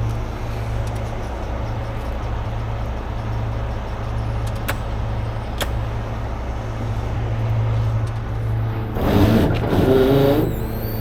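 Heavy wrecker's diesel engine idling steadily, with two sharp clicks around the middle and a louder, wavering sound lasting about a second and a half near the end.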